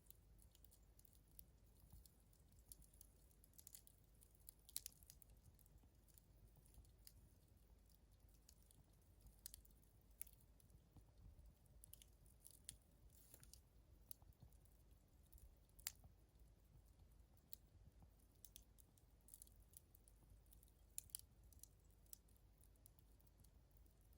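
Wood fire burning low toward embers, crackling faintly with sparse, irregular small pops and ticks.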